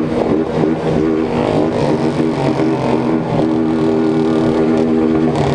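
Small single-cylinder motorcycle engines, Honda 160s, running together in a group ride, their revs rising and falling over the first couple of seconds before settling into a steadier drone.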